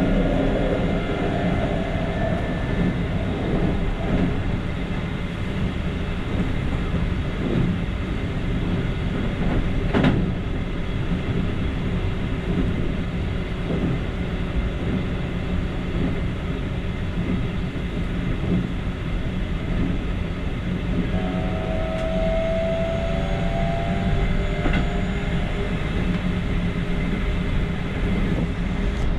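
Keikyu electric commuter train running along the line, heard from the front cab: a steady rumble of wheels on rail, with one sharp click about ten seconds in and a brief high whine a little past the middle.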